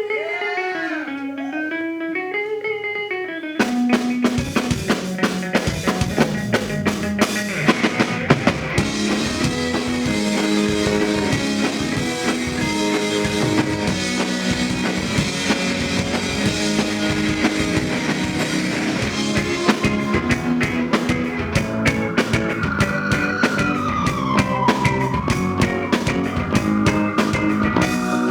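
Rock band playing live: a lone guitar with bending notes, then the drum kit and the rest of the band come in together about three and a half seconds in and play on.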